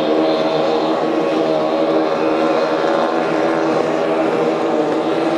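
Antique outboard motor running steadily on a boat, a loud engine note whose pitch holds nearly constant with slight wavering.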